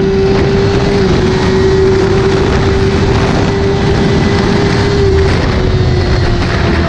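Motorcycle engine holding steady high revs at speed, its single steady note buried in heavy wind rush, the pitch easing slightly about five seconds in.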